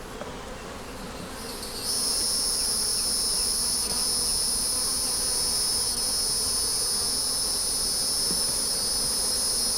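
Honey bees buzzing around an opened hive. About two seconds in, a loud, steady, high-pitched insect drone starts up and holds over the bees.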